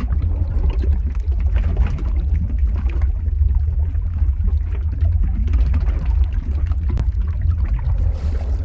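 Lava-flow ambience sound effect: a steady deep rumble with irregular bubbling, crackling noise over it, like molten rock churning and pouring.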